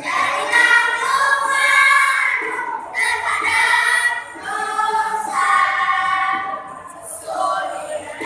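School choir singing in several voices, held notes in phrases with short breaths between them.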